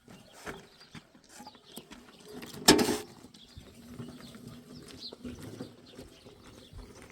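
Sheep and goats milling around, with scattered small knocks and shuffling and one loud, short, noisy sound about three seconds in.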